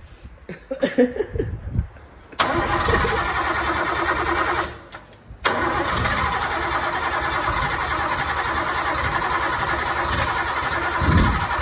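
Turbocharged straight-six car engine cranking, then catching about two seconds in and running loud and steady, with a short break near the middle before it runs on.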